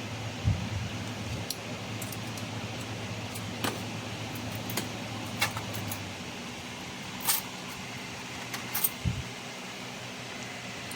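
Steady fan hum of a 3000 W laser welding machine, with scattered sharp clicks and ticks. A low hum underneath stops about six seconds in.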